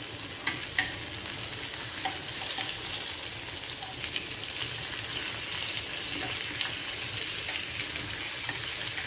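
Chicken pieces sizzling steadily in ghee on a ribbed grill pan, with a few short clicks as the pieces are handled and turned.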